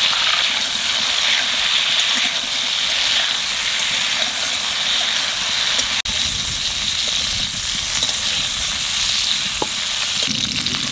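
Cauliflower florets sizzling steadily as they fry in hot oil in a metal kadai, stirred with a spoon. The sizzle drops out for an instant about six seconds in.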